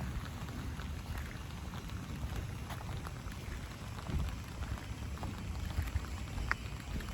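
Steady rain falling, with many small drop ticks over a low rumble, and one sharper tick near the end.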